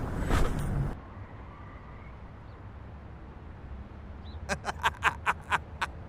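Steady low vehicle rumble, with a loud noisy burst in the first second and a quick run of about seven short, sharp sounds, some four a second, near the end.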